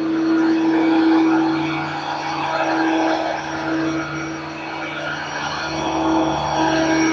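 Kenmore Heavy Duty Plus upright vacuum cleaner running, a steady motor whine over the rush of air, swelling and easing a little every few seconds. Its motor runs kinda loud, which the owner puts down to an old bearing that was never replaced.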